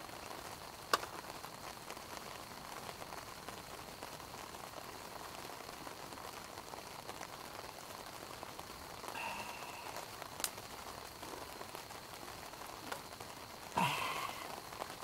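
Wood campfire crackling: a steady fizzing hiss broken by a few sharp, isolated pops.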